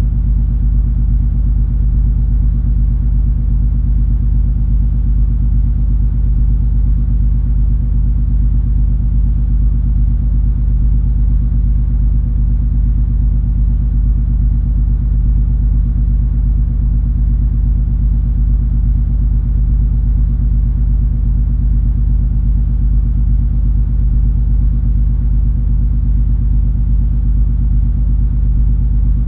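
Steady deep rumble and hum of the cruise ferry MS Color Fantasy's engines under way, heard on board, unchanging throughout.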